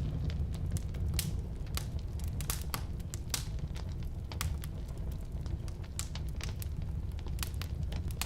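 Firewood burning in a fireplace or wood stove, crackling and popping irregularly over a steady low rumble of the flames.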